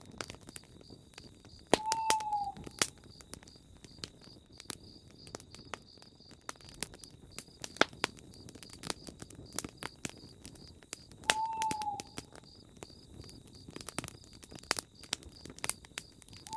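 Campfire crackling with frequent sharp pops, while an owl hoots twice, each a short single note that falls slightly in pitch, under a steady high trilling of night insects.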